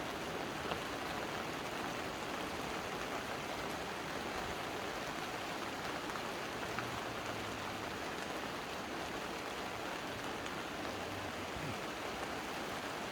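A steady, even hiss like light rain.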